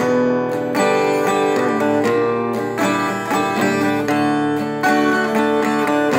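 Guitar playing a light, whimsical instrumental over D, C and G chords, notes picked and strummed.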